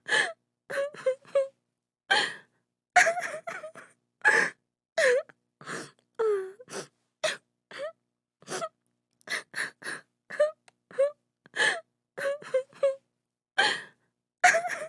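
A woman crying: short sobs, gasping breaths and wailing moans that come in quick separate bursts, some with a pitch that bends up and down, with silent gaps between them.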